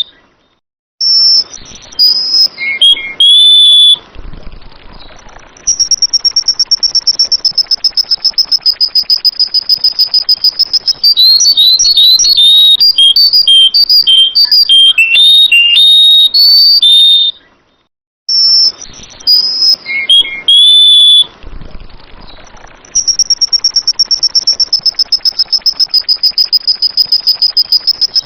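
Sooty-headed bulbul (kutilang) song: clear whistled notes that glide up and down, alongside a long, fast, high-pitched trill of repeated notes. The sequence breaks off briefly near the middle and starts over, as if looped.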